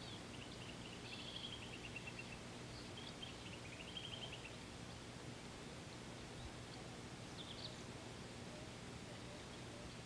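Small birds calling faintly: a few short, rapid trills of high notes in the first half and a brief chirp later, over a steady low background hum.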